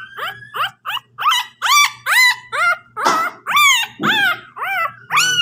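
Newborn puppy crying: a quick run of short, high-pitched squeals that rise and fall, about three a second.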